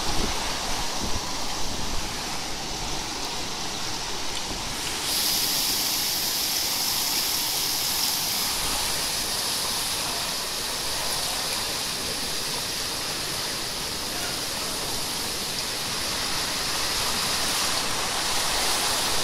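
Torrential rain pouring down in a dense, steady hiss that grows brighter and heavier about five seconds in.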